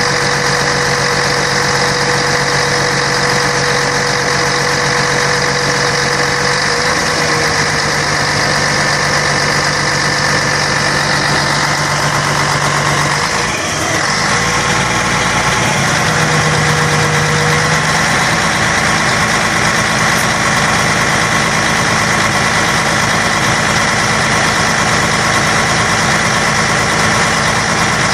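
Scania K113 bus's diesel engine running steadily, with a brief dip and change in its tone about halfway through.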